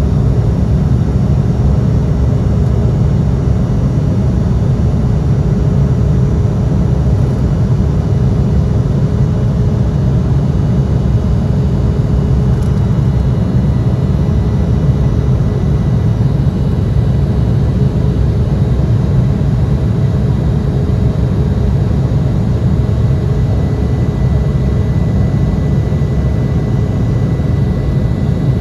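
Embraer E175's GE CF34 turbofan engines running steadily: a loud, even low rumble with a few faint steady whining tones above it.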